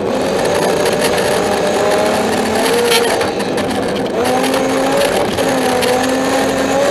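BMW 325i rally car's straight-six engine heard from inside the cabin, revving hard and rising and falling in pitch with throttle and gear changes, over a steady rush of tyre and road noise on snow.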